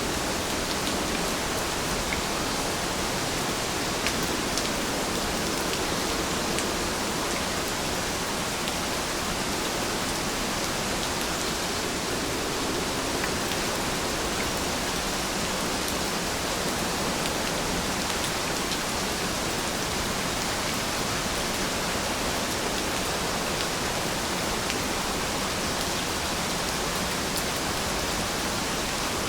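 Steady rain, an even hiss with occasional faint drop ticks.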